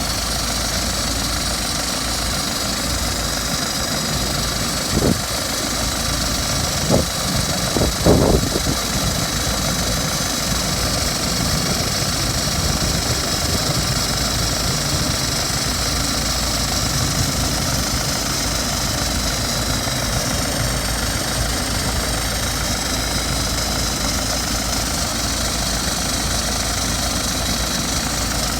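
BMW 320d F30's 2.0-litre four-cylinder diesel engine idling steadily after a cold start, with a rattle that sounds like a loose plate, its cause unknown to the owner. Three short, louder knocks come about 5, 7 and 8 seconds in.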